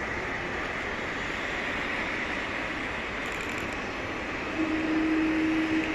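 FedEx MD-11F jet engines on its landing, a steady rushing noise. A steady low hum comes in about two-thirds of the way through and is the loudest part.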